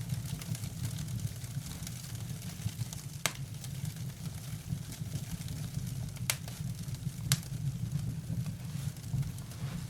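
Open fire burning with a steady low rumble and fine crackling, broken by three sharp pops, the first about three seconds in and two close together later on.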